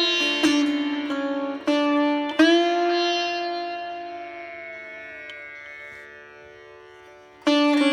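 Instrumental music on a plucked string instrument over a steady drone: a few plucked notes, then one long note that rings out and fades slowly before a new phrase starts near the end.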